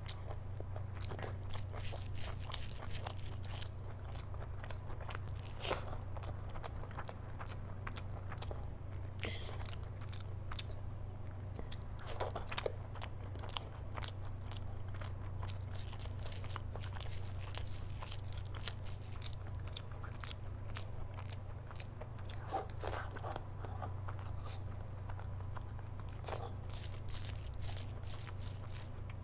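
Close-miked eating: a person chewing and biting mouthfuls of mutton curry and rice eaten by hand, with frequent wet smacks and sharp clicks. A steady low hum lies underneath.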